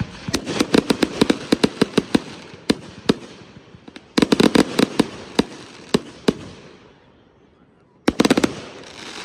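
Consumer fireworks going off in rapid volleys of sharp bangs and cracks: a quick string of cracks at first, a dense cluster about four seconds in, then a short lull before another dense flurry near the end.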